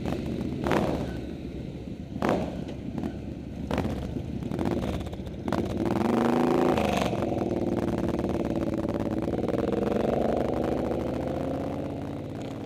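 Suzuki V-twin cruiser motorcycle engine running, with several sharp clicks in the first few seconds. About six seconds in it revs up and drops back, then pulls away with the engine note rising steadily.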